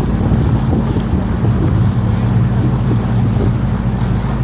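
Canal tour boat's engine running steadily at cruising speed, a low even hum, with wind buffeting the microphone.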